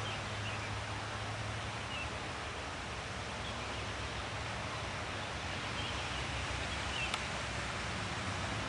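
Steady rustling outdoor background with faint, short bird chirps now and then, and one sharp click about seven seconds in.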